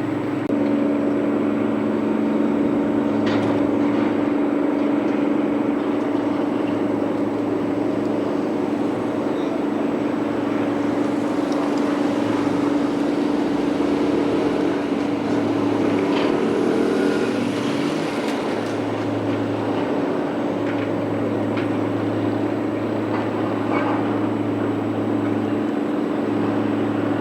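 An engine running steadily at a constant pitch, with a deeper hum that comes and goes every few seconds.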